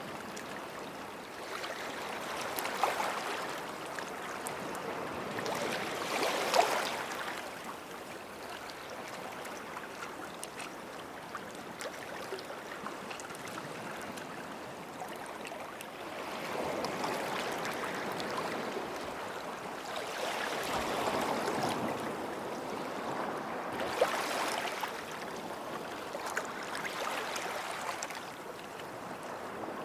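Small sea waves washing onto a sandy beach: a soft, steady wash that swells and recedes every few seconds, with the strongest surges a few seconds in, about a third of the way through, and again around two thirds through.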